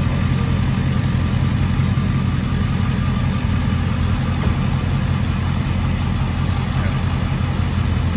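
Dodge Charger 392 Daytona's 6.4-litre HEMI V8 idling steadily with a low rumble, through an exhaust straight-piped except for the catalytic converters (mid mufflers and resonators deleted).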